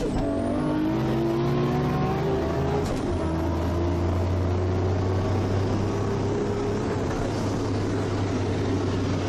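Toyota Supra's turbocharged 2JZ inline-six at full throttle on 50 psi of boost, heard from inside the cabin. The engine note climbs through the gears, with quick shifts at the start and about three seconds in, then a long pull, while a thin high whistle rises in each gear.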